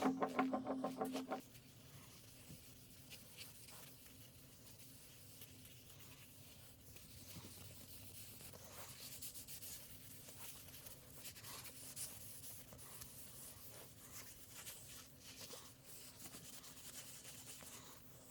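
Faint, irregular rubbing and scraping with small crisp ticks, like hand work on a surface. A loud pitched sound cuts off just over a second in.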